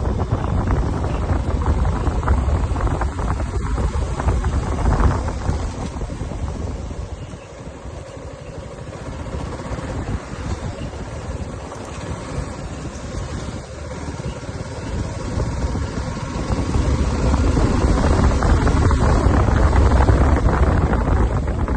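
Wind buffeting the microphone: a rough, gusting rumble that eases a little before halfway and builds again to its loudest near the end.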